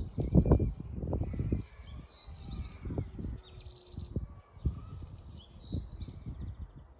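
Small birds chirping and twittering, over irregular low thumps and rumbling that are loudest in the first second or two.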